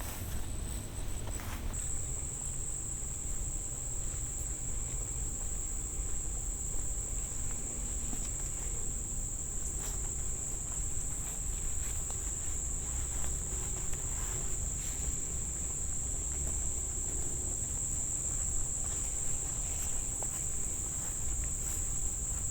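Steady shrill chorus of crickets, one continuous high-pitched drone that grows louder about two seconds in, over a low background rumble.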